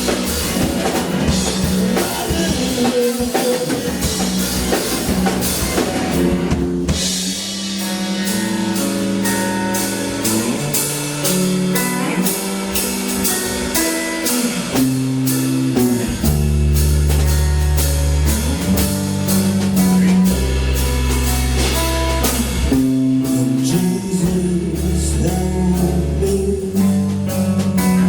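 Live band playing rock music with drum kit, guitar and bass. About seven seconds in the drums briefly drop back, then a steady beat resumes, and heavy sustained bass notes come in about halfway through.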